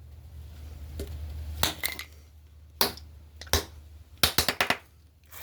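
A five-pound hammer smashing a birdhouse: single sharp blows and cracks a second or so apart, then a quick run of several cracks and clatter near the end as the house breaks up.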